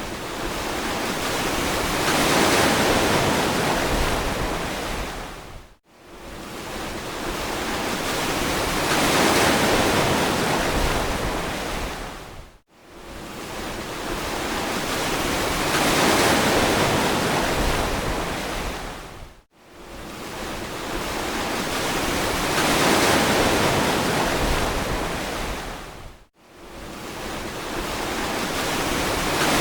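Ocean surf washing on a beach, a steady rushing hiss that swells and ebbs in cycles about seven seconds apart. Each cycle cuts out suddenly for a split second, four times.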